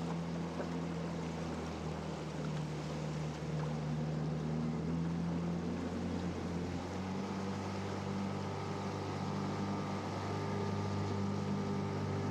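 A small boat motor running steadily, with its note shifting slightly about seven seconds in.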